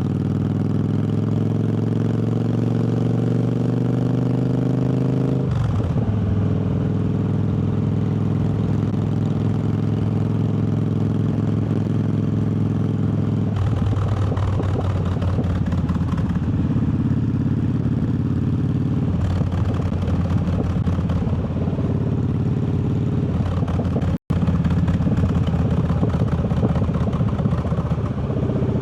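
Triumph Bobber's parallel-twin engine under way, rising in pitch as it accelerates for about five seconds, then dropping at a gear change and running on with further changes in engine speed. The sound cuts out for an instant near the end.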